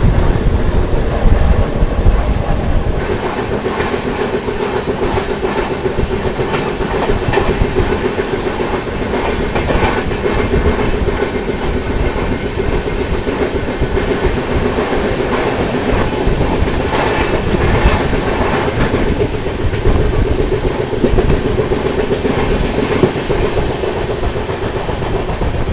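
Passenger train running at speed, heard from an open coach door: wheels clattering over the rail joints over a continuous rumble and rush of air.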